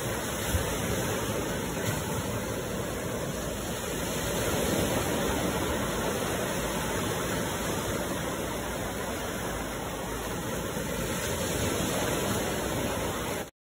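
Steady rush of flowing water, an even roar without any rhythm, which cuts off abruptly just before the end.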